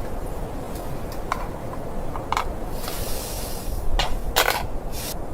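Steady low wind rumble with scattered sharp crackles and clicks, a short hiss about three seconds in, and a louder crackling rustle about four seconds in.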